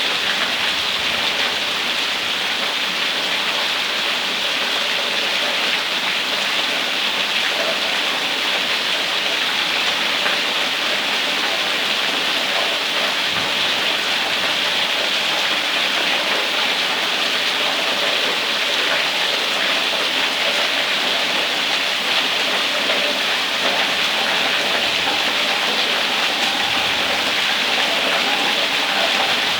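Steady heavy rain pouring down and pattering on surfaces, an even hiss at constant loudness.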